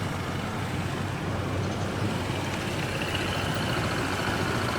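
Steady motor-vehicle engine and road noise, an even low rumble that holds at a constant level.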